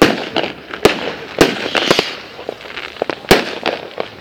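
Fireworks going off: a string of sharp bangs and pops at irregular intervals over a steady crackle, the loudest bang right at the start and another about three seconds in.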